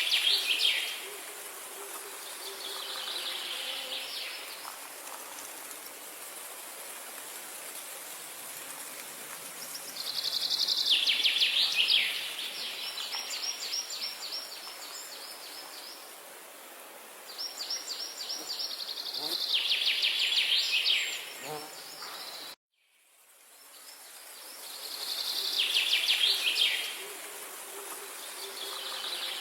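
A songbird singing loud trilled phrases every few seconds over a steady high background hiss like insects. The sound cuts out suddenly about 22 seconds in and fades back up, where the recording loops.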